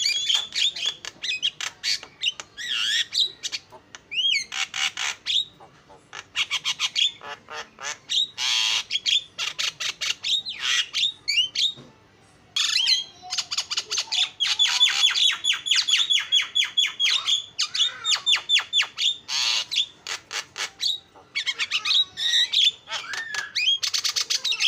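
Javan myna singing a long, varied song of harsh squawks, whistled notes and fast chattering runs, with a brief pause about halfway through.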